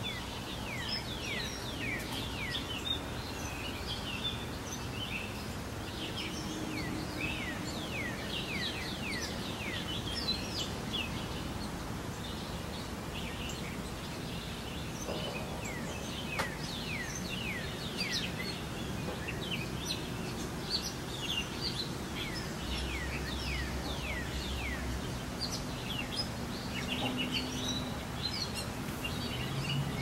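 Wild birds chirping: many short, quick falling chirps, over a steady low background hum.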